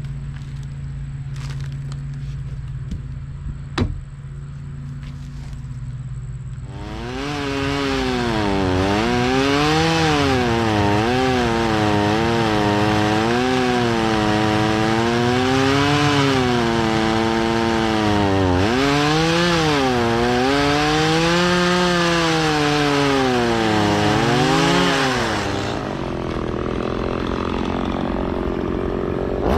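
Stihl MS170 two-stroke chainsaw idling, then opened up to full throttle about seven seconds in and cutting wood, its engine pitch repeatedly dipping and recovering as the chain bites and frees. Near the end it falls back toward idle, then revs up again.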